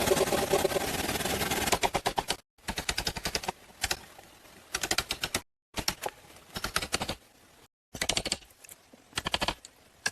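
Rapid knocking in short bursts of many quick sharp strikes, several runs broken by abrupt cuts.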